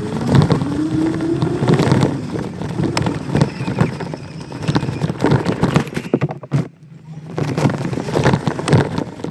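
Small dirt bike's motor whining up in pitch as it pulls away, over rattling and knocking from the bike rolling across rough ground. It drops off briefly past the middle, then picks up again.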